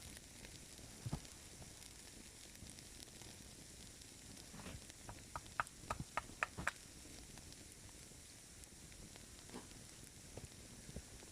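Faint steady hiss with sharp crackling clicks: one about a second in, then a quick run of about seven about halfway through.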